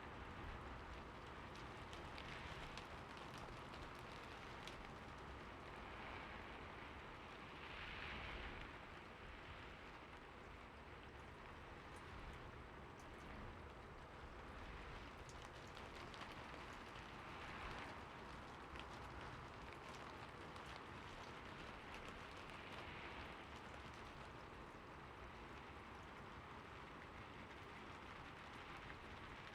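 Soft, steady rain: a continuous hiss with many individual drops ticking, swelling briefly a few times.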